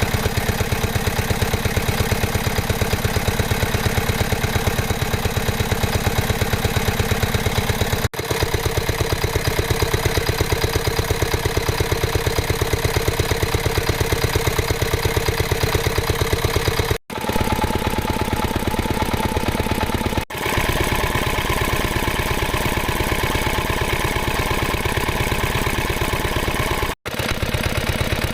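Yanmar K3 single-cylinder stationary diesel engine running steadily with an even, rapid beat. The sound breaks off abruptly for a moment several times and picks up again.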